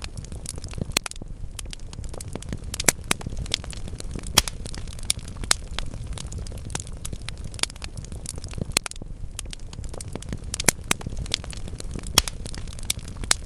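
Wood fire burning in a fireplace: irregular crackles and sharp pops from the logs over a steady low rumble of the flames, with the loudest pops about four seconds in and near the end.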